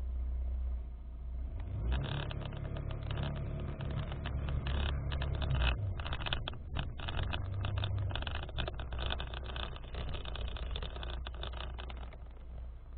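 Abnormal noise in the AD910's audio pickup: a steady low hum, joined about two seconds in by a harsh crackling, rasping noise full of rapid dropouts.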